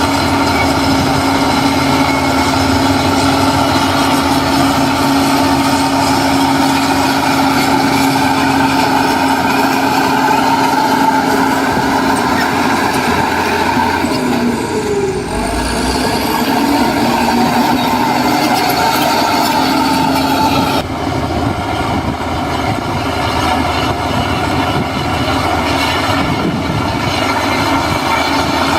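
Diesel engine of heavy earthmoving machinery running steadily under load. The engine note dips briefly about halfway and changes abruptly about two-thirds through.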